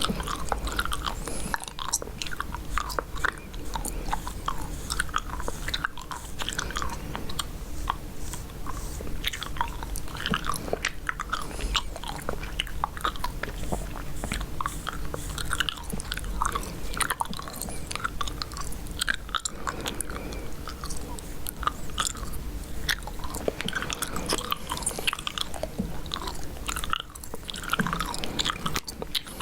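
Close-miked chewing gum: continuous wet, sticky chewing with irregular small clicks and smacks of the mouth.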